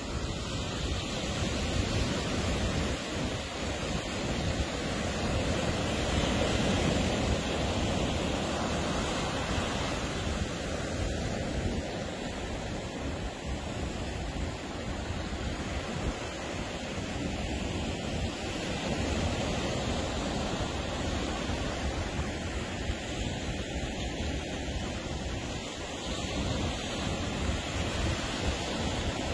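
Ocean surf washing onto a beach: a continuous rush of waves that swells and eases gently every few seconds.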